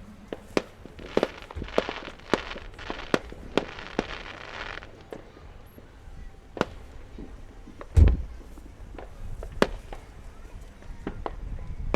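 Aerial fireworks going off: a string of sharp bangs and pops, a stretch of dense crackling from about one to five seconds in, and a single deep boom about eight seconds in, the loudest burst.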